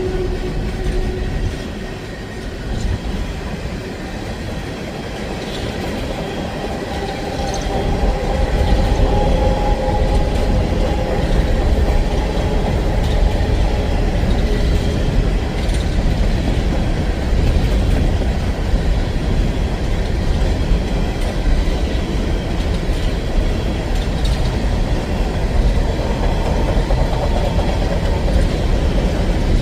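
CSX empty coal train rolling past: a locomotive horn note cuts off about a second in, then the steady low rumble and clatter of the empty coal cars' wheels on the rails, growing louder about eight seconds in.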